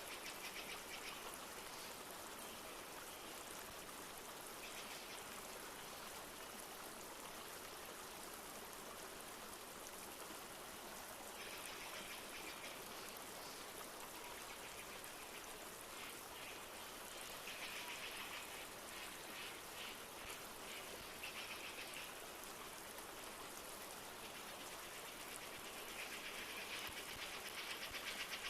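Steady rush of a flowing river, with birds chirping in short rapid trills several times, loudest near the end.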